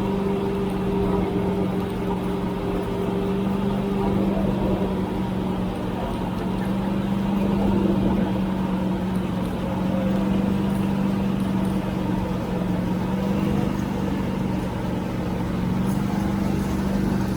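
Tractor engine running steadily under way, holding an even pitch.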